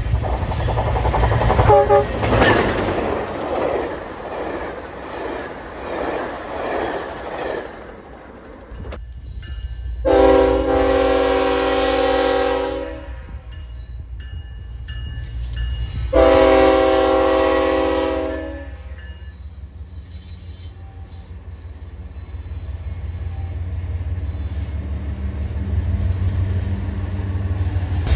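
Train passing with a rattling rumble, then two long locomotive horn blasts about three seconds apart, then the low rumble of a BNSF freight's diesel locomotives and double-stack container cars rolling by, building toward the end.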